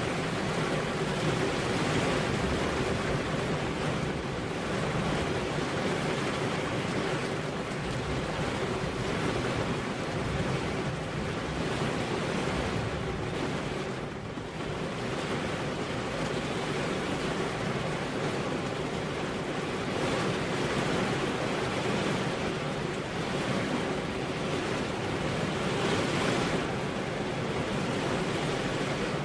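Steady rain with wind, a continuous hiss that swells and eases in slow waves.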